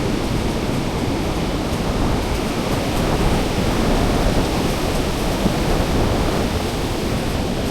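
Surf breaking on a sandy beach: a steady, continuous rush of waves.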